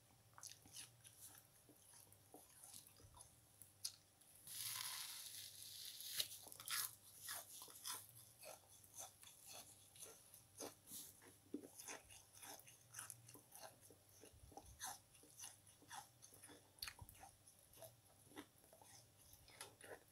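A person biting and chewing foam kitchen sponge close to the microphone: a steady run of faint crunching clicks, with a longer, louder crunch about five seconds in.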